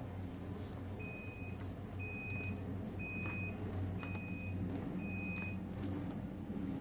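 Hitachi refrigerator's open-door alarm beeping five times, one short high beep each second, over a low steady hum: the sign that the door has been left open too long.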